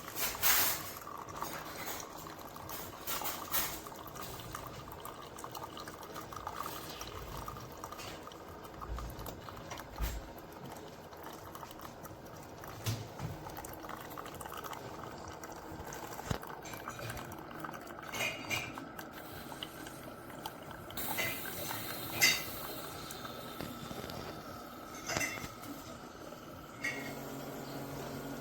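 Coffee maker brewing: water gurgling and trickling into a cup or carafe, with scattered clicks and clinks of the machine and dishes. A steady low hum starts near the end.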